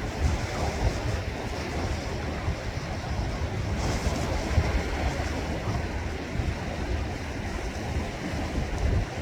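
Sea waves washing in continuously, with wind buffeting the microphone as a low rumble.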